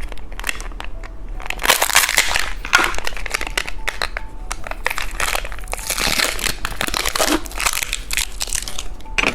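Plastic candy packaging crinkling and crackling in the hands, in several waves of dense crackles.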